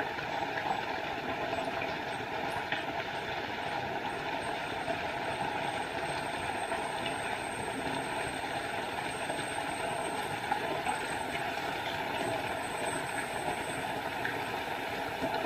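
Small forest waterfall: water falling and splashing in a steady, even rush.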